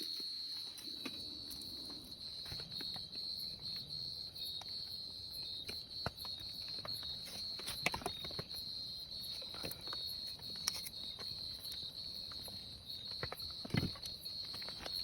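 Insects chirring in a steady, unbroken high-pitched drone, with a few scattered clicks and knocks.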